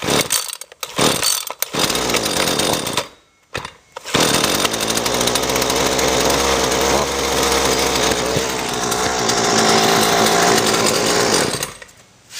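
Small two-stroke string trimmer engine cold-started on choke. It gives a few short sputters, then catches about four seconds in and runs steadily for about eight seconds before stopping near the end.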